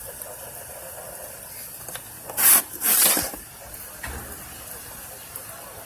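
Steady radio hiss, with two short loud rushes of noise about two and a half and three seconds in.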